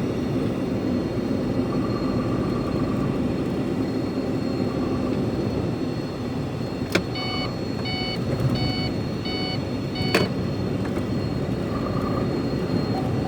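Steady engine and road rumble of a truck on a wet downhill grade. About seven seconds in, a click is followed by a short run of electronic beeps, roughly two a second, which end with a second click about three seconds later.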